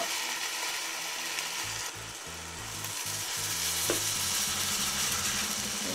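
Turkey burger patties sizzling steadily in hot oil in a frying pan.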